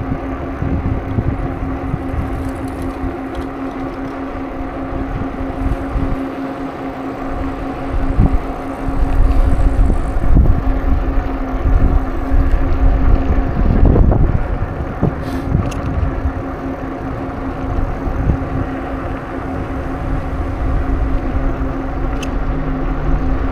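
Wind buffeting the microphone of a moving bicycle, an uneven low rumble that grows heavier about a third of the way in, over a steady hum.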